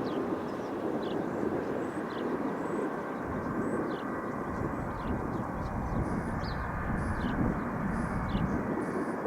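Boeing 707-368C's Pratt & Whitney JT3D turbofans running, a steady rumble that grows heavier in the low end from about three seconds in. Short high chirps repeat over it every half second or so.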